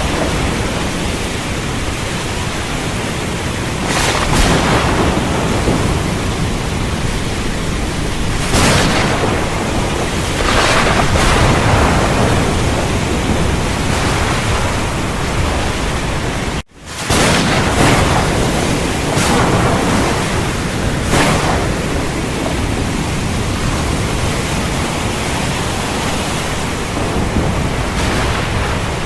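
Heavy rain pouring steadily, with several short, sharp thunder cracks rising out of it. Just past the middle, the sound cuts out for an instant and comes straight back.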